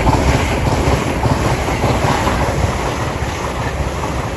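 LNER Class 801 Azuma electric express train passing through the station at speed: a loud rush of wheel and air noise that peaks at the start and slowly fades.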